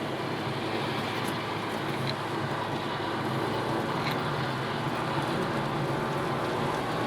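Mazda Miata's four-cylinder engine running at a fairly steady pitch under a constant hiss of tyre and road noise on a wet track.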